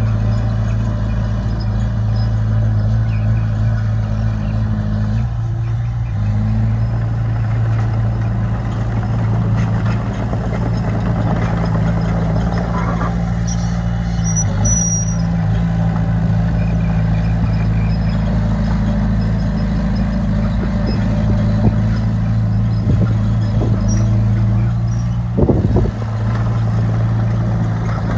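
Bulldozer's diesel engine running steadily under load, its pitch shifting a few times. A brief high squeal comes about halfway through, and a single knock near the end.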